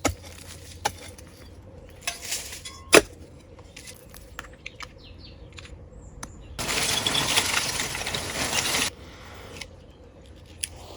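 Metal digging tool working in soil: sharp clinks, one loud strike about three seconds in, and a gritty scrape of earth being shifted lasting about two seconds past the middle.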